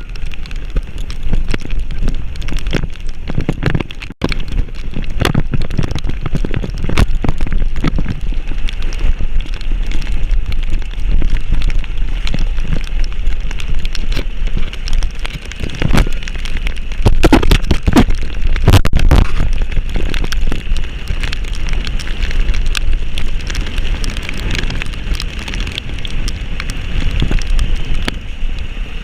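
Heavy rain hitting close to the microphone: a dense, irregular crackle of drops over a constant low rumble.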